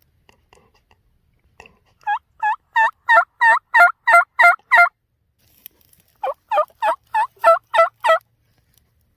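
A new hand-held turkey call being worked to imitate a hen turkey's yelp: two runs of sharp, falling two-note yelps at about three a second, the first of about nine notes growing louder, the second of about seven.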